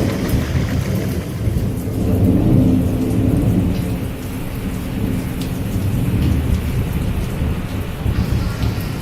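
Steady rain with a deep, rolling rumble of thunder that swells and fades twice.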